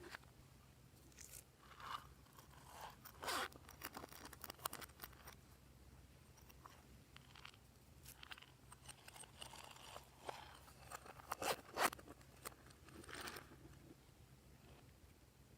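Glossy slime being worked by hand, giving irregular small clicks, pops and crackles. The loudest one comes near the end, then it goes quiet.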